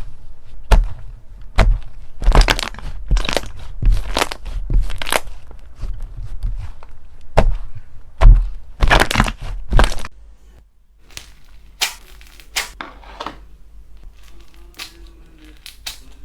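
Crunchy slime being pressed and squeezed in the hands, giving a quick series of sharp cracks and crunches. About ten seconds in it switches to a much quieter stretch of small, scattered crackles and clicks.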